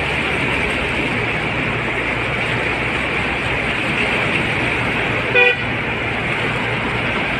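A steady wash of street and traffic noise, with one short vehicle horn toot about five and a half seconds in.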